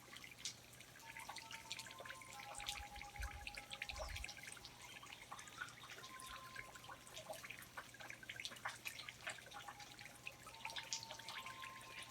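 Water dripping in a rainforest: many small, irregular drops and taps, with thin held tones near 1 kHz coming and going.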